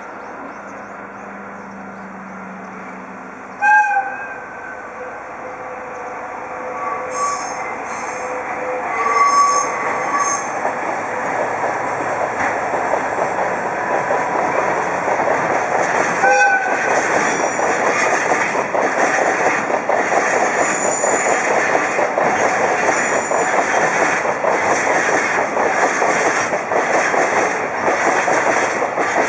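Diesel-hauled freight train approaching and passing. The locomotive's horn sounds a short blast about four seconds in and another about sixteen seconds in. The train's rumble grows louder, and the second half is filled with the steady rumble and rhythmic wheel clatter of tank cars and freight wagons going by.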